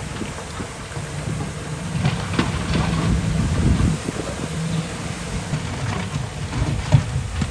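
Heavy diesel earthmoving machinery running under load, a low, uneven rumble with several metallic clanks.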